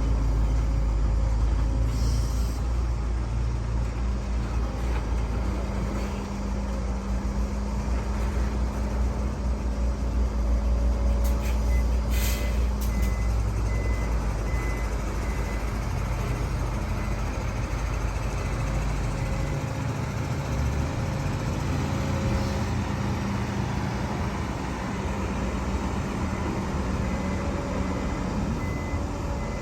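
Heavy diesel engines of an excavator and dump trucks running under load with a steady low rumble. A truck's reversing beeper sounds in evenly spaced beeps about 11 seconds in and again near the end, and a short air hiss comes about 12 seconds in.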